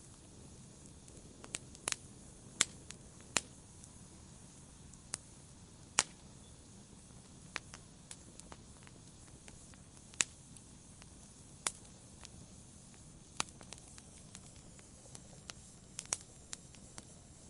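Campfire burning: a low steady rush of flame with sharp, irregular crackles and pops from the burning wood, a dozen or so scattered through.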